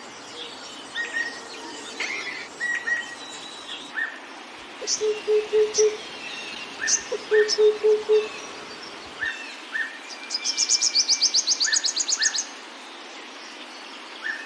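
Several wild birds calling and singing: repeated short chirps, a low four-note hooting series heard twice, and a loud, rapid high trill lasting about two seconds in the second half.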